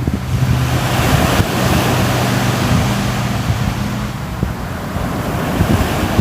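Sea surf washing on a shore: a steady rush of waves that swells about a second in and eases off after a few seconds, with wind rumbling on the microphone. A faint low hum runs under it for the first few seconds.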